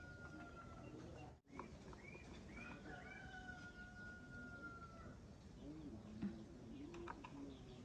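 Faint bird calls: two long, level whistles and a few short rising chirps, with the sound cutting out for an instant about a second and a half in.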